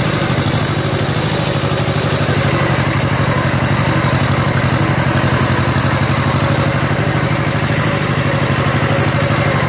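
Kubota L1500 tractor's 18-horsepower diesel engine running steadily as the tractor drives in second gear.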